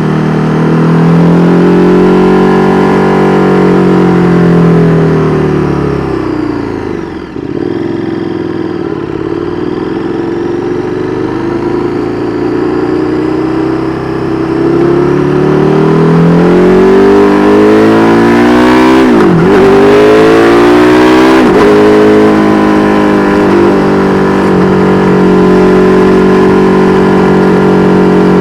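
KTM 1290 Super Duke R Evo's V-twin through an Austin Racing V3 Mini exhaust, ridden in traffic. The revs rise, then fall away to a low point about seven seconds in, climb again slowly, dip sharply twice around the twenty-second mark, and then hold steady.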